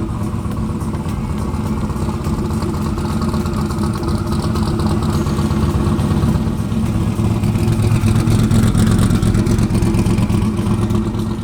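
1962 Chevy Nova wagon street car's engine running steadily on the road, growing a little louder toward the later part.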